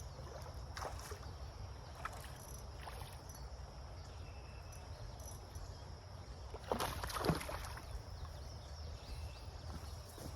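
Water splashing as a hooked largemouth bass is fought and landed: a few scattered splashes, then a louder cluster about seven seconds in.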